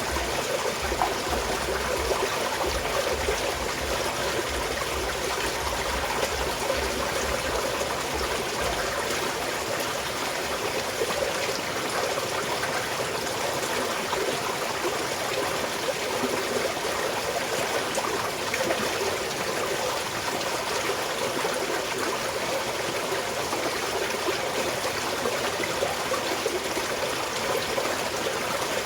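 Small mountain stream flowing steadily, a continuous rush of running water with no pauses, with a low rumble underneath for roughly the first nine seconds.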